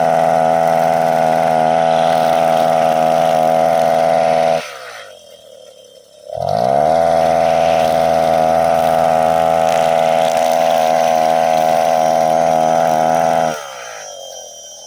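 Brush cutter engine running at high revs. About four and a half seconds in the revs fall away to a low idle, rise again after about two seconds, and fall once more near the end. The owner says the engine runs rough (semput) after six months unused.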